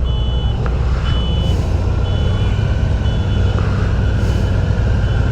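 Motorcycle engine running at low speed, with a short high electronic beep repeating about once a second over it.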